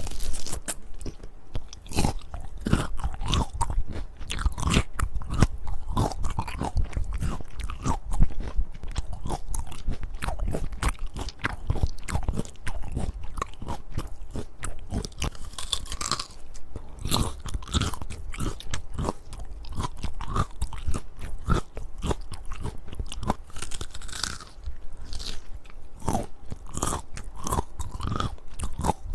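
Biting and chewing crunchy peaches close to the microphone: a dense, continuous run of crisp crunches.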